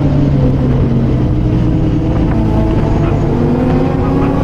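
Kawasaki ZX-25R's inline-four engine running at a steady cruise while riding, its pitch rising slightly near the end.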